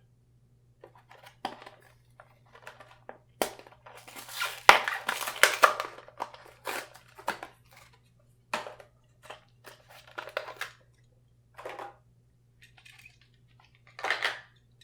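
Plastic blister packaging of a diecast car crackling and crinkling in irregular bursts as it is opened and handled, busiest a few seconds in, over a faint steady hum.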